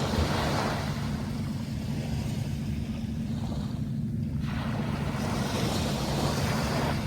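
Sea waves washing in twice, once at the start and again from about four seconds in, over a steady low hum.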